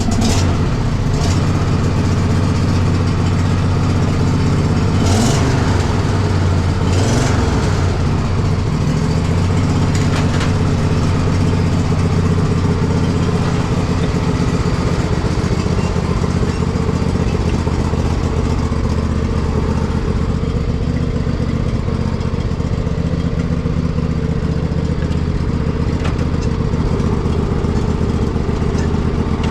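Poulan riding mower engine running steadily just after being started. Its pitch rises and falls briefly twice, about five and seven seconds in.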